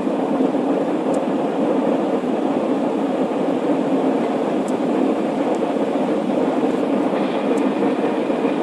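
Airbus A320 engines and airflow heard inside the cabin as the airliner takes off: a steady, unbroken roar, with a few faint ticks.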